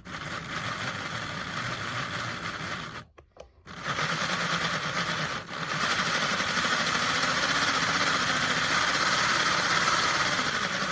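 Hornby R.153 model tank locomotive running under power, its small electric motor and gears giving a steady whirring rattle. The sound cuts out briefly about three seconds in, then resumes and grows louder.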